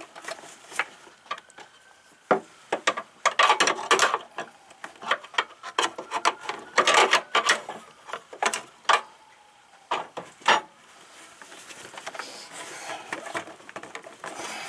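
Hands working a car's rubber upper radiator hose and its clamp with tools: irregular scraping and rubbing with sharp clicks, busiest in the middle.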